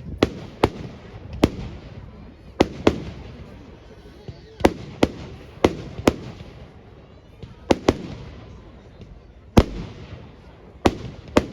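Fireworks going off in an irregular string of about fourteen sharp bangs, some in quick pairs, each trailing off into a rumbling echo.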